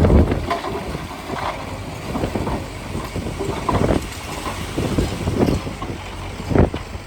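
Heavy earthmoving machinery at work: a diesel engine rumbling under irregular knocks and clanks, loudest right at the start.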